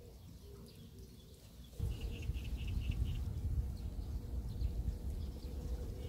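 Birds outdoors: a bird cooing in short low notes, then about two seconds in a sudden loud low rumble comes in with a quick run of high chirps from a bird.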